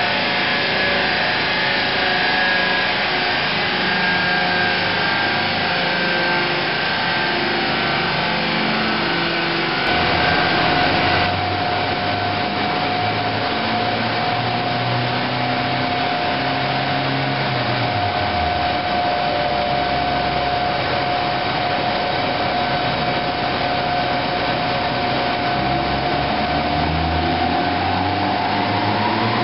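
Turbocharged 2.0 16v Alfa Romeo 145 engine running on a chassis dyno, with a steady whine joining in about a third of the way through. Near the end the pitch starts to climb as the engine revs up.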